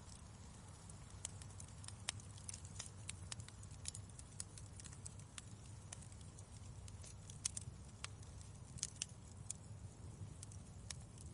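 Wood fire crackling in a fireplace: irregular sharp pops and snaps over a low, steady burning rumble.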